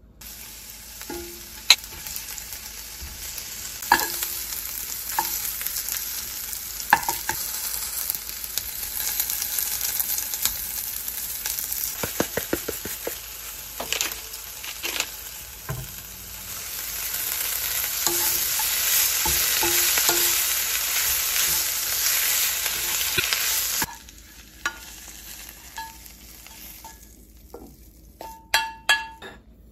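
Chicken-breast dumplings and sliced chicken-breast sausage sizzling in oil in a nonstick frying pan while being stir-fried, with the utensil knocking against the pan now and then. The sizzling grows louder about two-thirds in and cuts off suddenly, followed by a few light clicks and scrapes.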